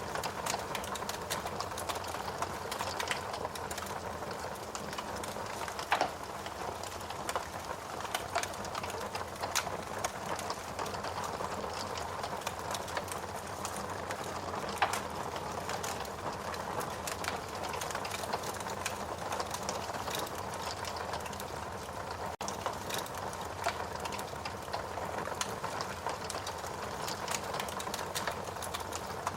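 Fire burning in a fireplace, crackling steadily over a low hiss, with frequent small clicks and a few louder pops, the loudest about six seconds in and another about fifteen seconds in.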